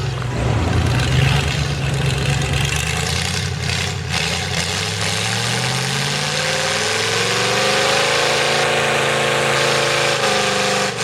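Mega mud truck's V8 with open headers running hard through the mud; the revs climb about halfway through and are then held high.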